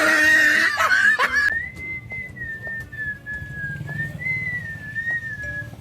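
A loud, brief burst of mixed sound in the first second and a half, then a whistled tune: one pure note line that wanders slowly up and down in pitch, over a faint low hum.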